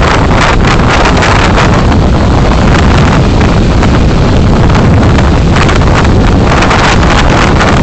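Loud, steady wind and road noise on a dash camera's microphone while driving, with frequent short gusty buffets.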